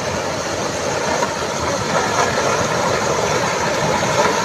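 Landslide debris and water rushing down a mountainside: a steady, heavy rushing rumble that grows slightly louder near the end.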